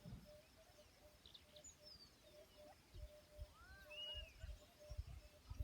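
Faint outdoor ambience with a few bird calls: a long falling whistle, then a cluster of short arching chirps, over a soft repeated note and low thumps that grow near the end.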